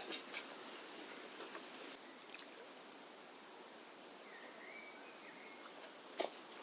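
Faint outdoor riverside ambience: a steady low hiss, with a few faint short high calls near the middle and a soft click about six seconds in.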